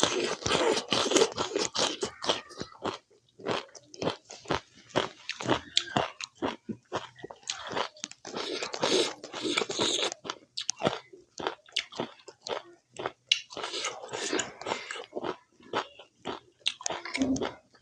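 Close-up eating sounds of a person chewing a mouthful of spicy pork curry and rice, with crunching bites and wet mouth clicks. The crunching comes in clusters: at the start, again about halfway through, and once more later on.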